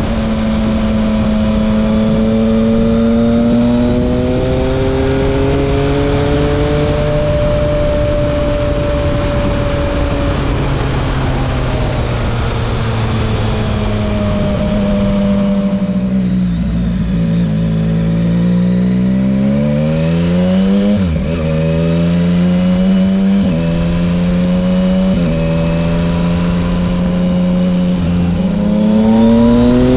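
Yamaha Tracer 900 GT's three-cylinder engine through a loud SC-Project straight-pipe exhaust while riding, with wind rush. It runs steadily for about the first ten seconds. Around halfway it drops in pitch, then climbs in steps through several gear changes, and near the end it revs up hard under acceleration.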